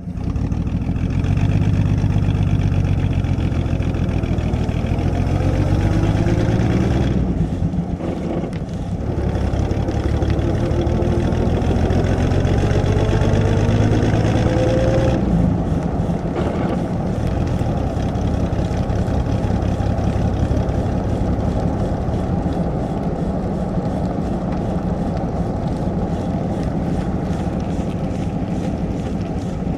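A 1937 Plymouth's flathead six-cylinder engine, heard from outside as the car pulls away and drives off. The engine pitch climbs, breaks briefly at a gear change about seven seconds in, and climbs again. Around fifteen seconds in it changes again and then runs steadier, slowly receding.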